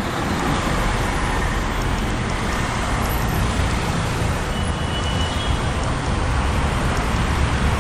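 Steady road traffic noise: the continuous rumble of passing vehicles.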